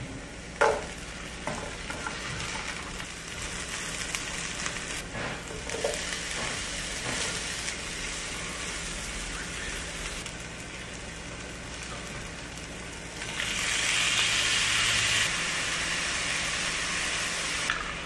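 Diced onion and cubed luncheon meat frying in oil in a nonstick skillet, sizzling steadily as a spatula stirs them, with a few short knocks in the first six seconds. About thirteen seconds in, the sizzle turns louder for a couple of seconds.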